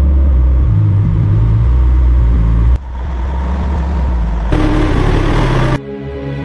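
Heavy vehicle engine rumbling low and steady, cut off abruptly twice as edited shots change, with a short burst of hiss near the end before background music comes in.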